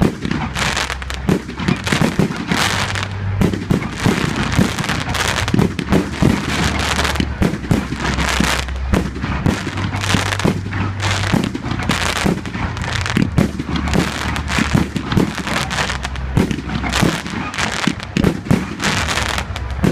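Fireworks display in full flow: a dense, continuous run of overlapping bangs and crackling, many per second.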